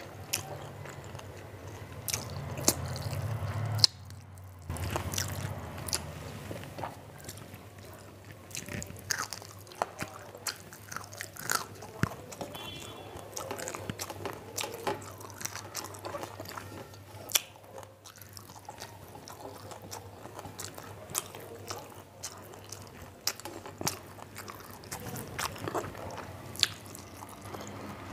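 A person chewing and eating a meal of rice and curries by hand, with frequent short, sharp clicks over a low steady hum.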